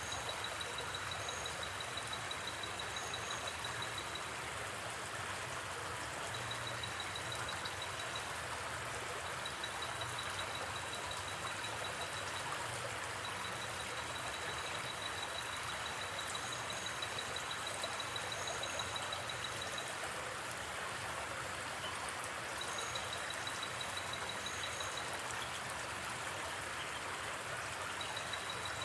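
Steady rush of a gently flowing river, with a high, rapidly pulsing trill that comes and goes in stretches of a few seconds and a few faint short chirps above it, as in night forest ambience.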